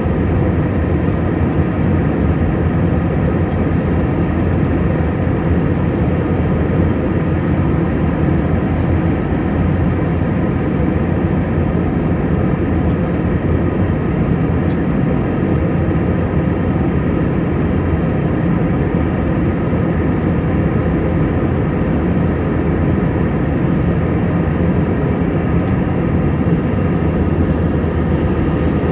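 Airbus A320 jet airliner noise: a steady low rumble with a constant hum, holding the same level throughout.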